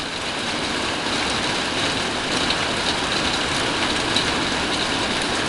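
Heavy monsoon rain pouring steadily, a dense hiss of drops with scattered patters, over a low rumble beneath it.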